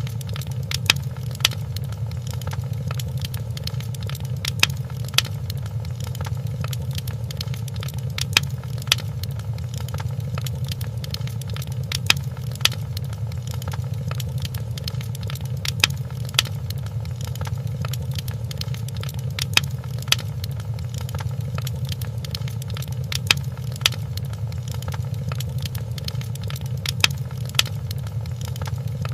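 Wood fire crackling in a fireplace over a steady low rumble, with many small snaps and pairs of louder pops that recur about every four seconds.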